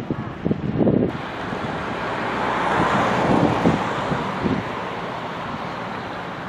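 Wind buffeting the camera microphone in irregular low thumps, over a steady rushing noise that swells and fades again around the middle.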